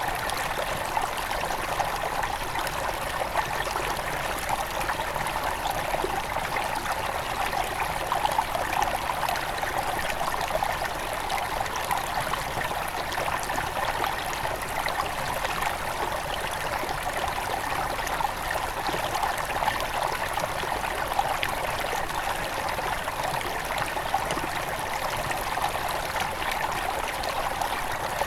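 Small forest river at its headwaters, water flowing and splashing over stones in a steady rush. The sound is densely flecked with fine drips and bubbling.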